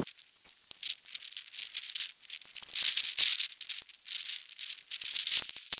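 Snow being scooped and packed by hand: a run of irregular, high-pitched crunching and swishing scrapes with small clicks between them.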